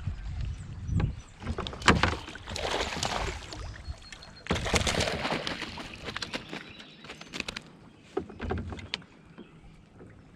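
Irregular splashing and knocking around a fishing kayak, with a sharp knock about two seconds in; the noise dies down towards the end.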